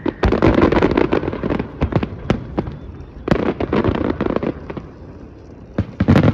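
New Year's fireworks exploding in rapid, overlapping bangs and crackles. They come in dense clusters, with a quieter lull about two-thirds of the way through before another burst near the end.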